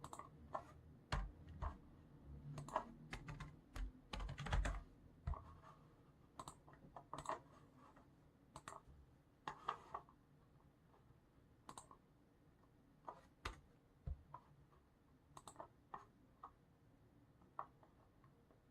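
Computer keyboard typing in irregular spurts of keystrokes, with a busy run about four seconds in and scattered single keys in the second half.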